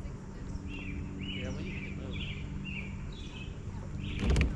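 A bird chirping over and over, short notes about twice a second, with a steady low hum underneath. A loud knock or handling noise comes near the end.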